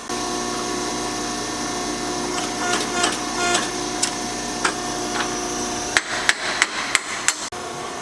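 A steady shop drone with several held tones runs under scattered sharp metal clicks. About six seconds in comes a run of five hard hammer strikes, roughly three a second. The level drops abruptly after the strikes.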